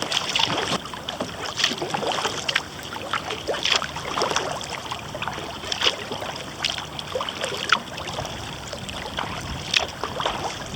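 Kayak paddle strokes: water splashing and dripping off the blades in quick, irregular spatters, over a steady hiss of moving water.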